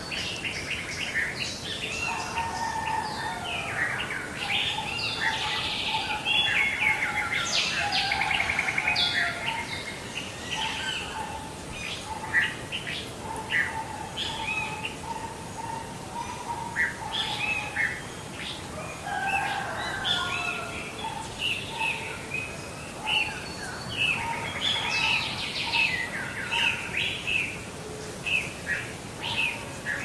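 Several songbirds singing and calling together in many short, overlapping chirps and trills, with a lower repeated note running through the first half.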